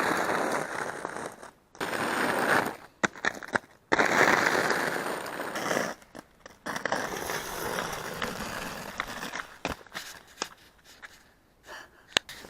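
Homemade quad roller skate wheels rolling over rough granite bedrock: a gritty rolling noise in several runs that cut off abruptly, with sharp clacks of wheels striking the rock in between.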